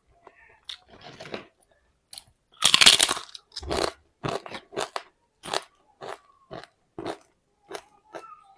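A loud, crisp bite into papad about three seconds in, followed by crunchy open-mouthed chewing, about two crunches a second.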